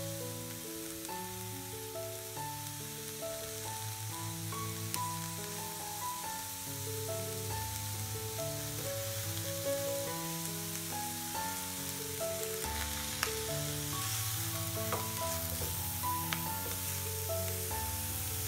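Shredded cabbage sizzling in a frying pan under background music: a melody of short notes over a bass line. A few sharp clicks break through.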